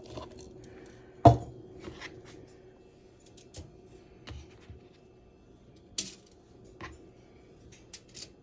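Boiled potatoes being smashed in a pan: scattered knocks and clatter of the utensil against the pan, with a loud heavy thump about a second in and a sharp knock about six seconds in.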